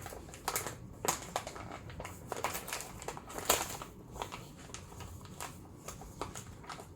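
Bag of ground coffee crinkling and rustling as it is opened and handled, with irregular sharp clicks.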